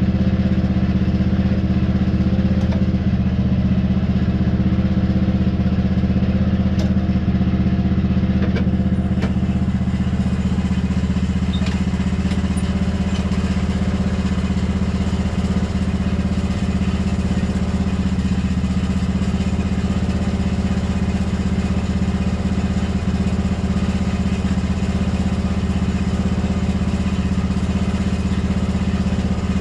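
An engine running steadily at a constant speed, with no change in pitch or loudness.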